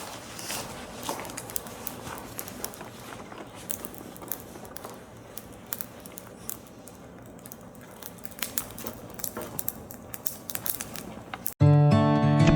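Low rustling with scattered short clicks and taps. About eleven and a half seconds in, acoustic guitar music starts suddenly and much louder.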